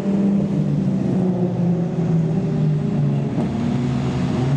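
Car engine running at low revs as cars roll in slowly, its low note stepping down and back up a few times.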